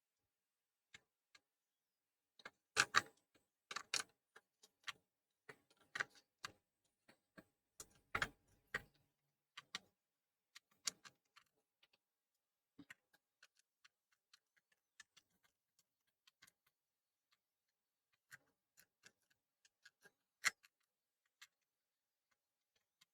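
Scattered light clicks and taps of small tools handled on a workbench during chip reballing, irregular, with silence between them; a few are louder, near the start and about two-thirds of the way through.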